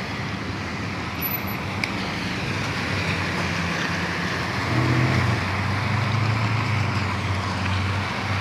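Motorcycle engine running at low speed in slow traffic; its low hum gets louder about five seconds in as it pulls away.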